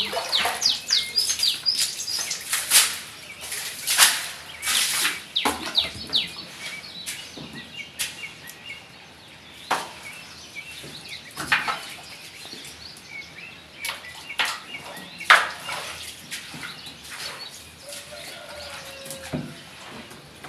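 Birds chirping in quick, short falling notes, thickest in the first few seconds. Sharp knocks and clinks come every second or two.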